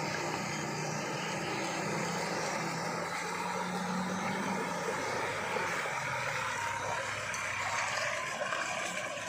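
Truck engine running steadily under load as the loaded truck moves along a dirt track, a continuous engine drone with a low hum.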